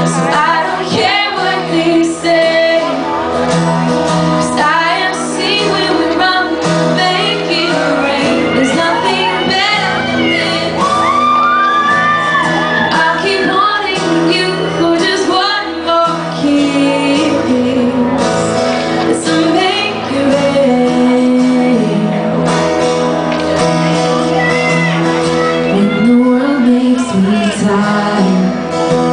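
A live pop band playing in a large hall, with singing over it and audience shouts and whoops.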